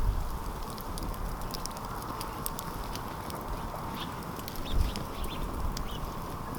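Wood campfire crackling, with frequent sharp pops and snaps over a steady hiss, and a low thump about five seconds in.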